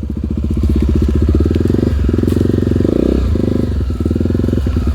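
Single-cylinder four-stroke trail motorcycle engine running steadily at low revs, with short dips in the throttle about two, three and four seconds in.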